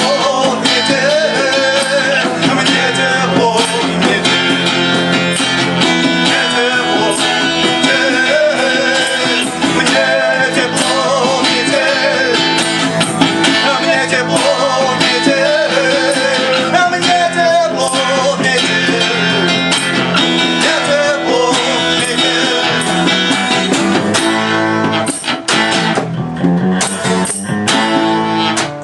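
Live rock band playing an instrumental passage of the song: guitars, bass and drums, with a lead melody line wandering above the chords. Near the end the band breaks into sharp accented hits, with brief drops in level between them.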